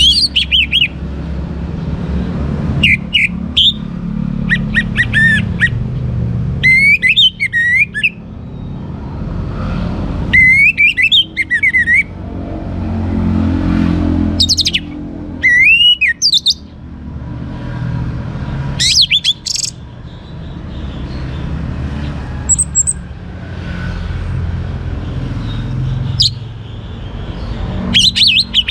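Orange-headed thrush singing: short phrases of quick, looping whistles that swoop up and down, one every few seconds with pauses between, over a steady low rumble.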